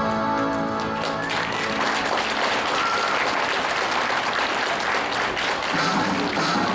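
Audience applauding after the dance music stops about a second in, with music starting again near the end.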